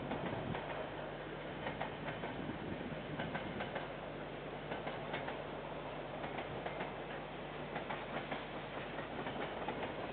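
Freight train of container wagons rolling past, a steady rumble with repeated clicks as the wheels cross rail joints, heard through a security camera's microphone.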